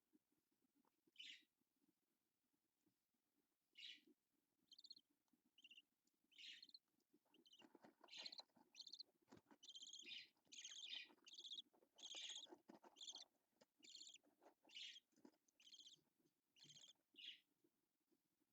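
Budgerigar chirping in short, high calls, a few spaced out at first, then quick chattering runs through the second half. A faint steady low hum lies underneath.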